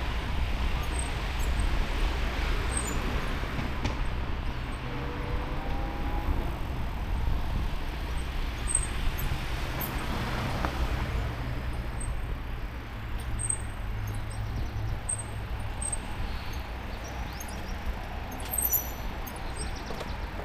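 Wind rumble on the microphone and tyre noise from a moving e-bike, with road traffic and a vehicle passing about ten seconds in. Faint high chirps come and go.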